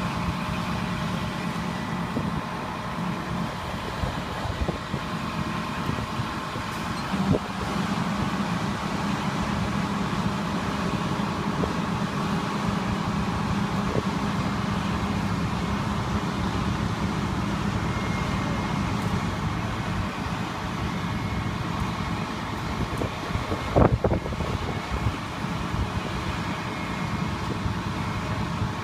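Steady drone of running motor vehicle engines, with a few sharp knocks, the loudest about three-quarters of the way through.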